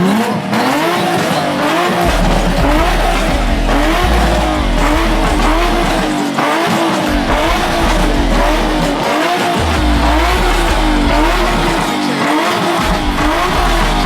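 Car tyres squealing under power, the squeal wavering up and down in pitch again and again, over a deep low rumble that cuts in and out.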